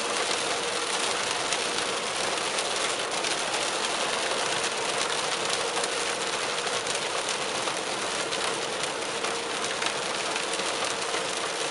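Heavy downpour pelting a moving car's roof and windshield, heard from inside the cabin as a dense, steady hiss of rain speckled with fine patter. A faint steady hum runs underneath.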